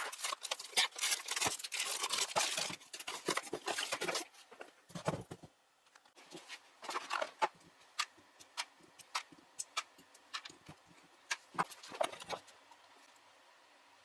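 Scattered clicks, knocks and short scrapes at irregular intervals, like small objects being handled, thinning out and stopping about twelve seconds in.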